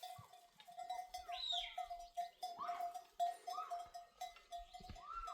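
Bells on a migrating flock clanking in a quick, steady rhythm, about four strokes a second, with several bleats from the animals over it.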